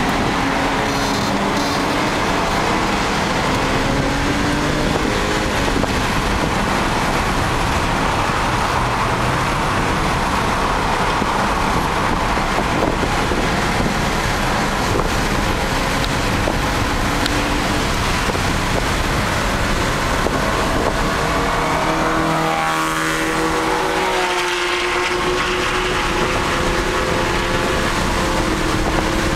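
A BMW's engine heard from inside the cabin while the car is driven hard on a race track, over constant loud road and wind noise. The engine pitch rises and falls through gear changes and lifts, with clear up-and-down sweeps and a brief dip about 24 seconds in.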